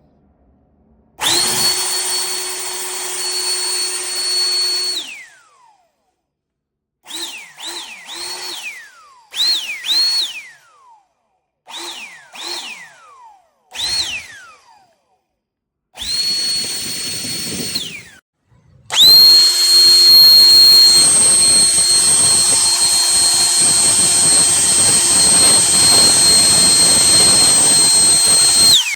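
Ykall 21V cordless leaf blower's motor whining at a steady high pitch, switched on and off. First comes a run of about four seconds, then a string of short blips, each winding down with a falling whine, then another short run, and finally a long run of about ten seconds.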